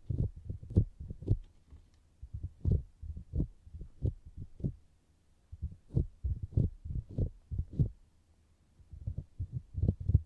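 Fingertips tapping on the outer ear of a binaural microphone: quick runs of soft, low thuds, with short pauses between the runs.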